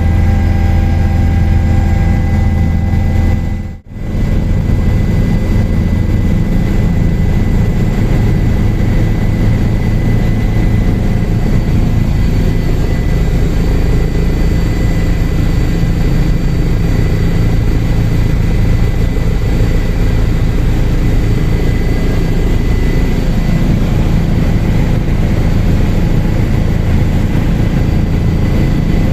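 Helicopter in flight: steady rotor and engine noise with a thin high whine over it, dropping out briefly about four seconds in.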